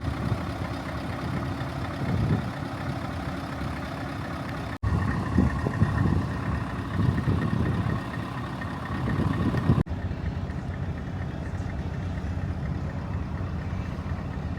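Heavy truck engines running at idle, heard in three short clips that cut off abruptly about five and ten seconds in; the engine note swells louder in the middle stretch.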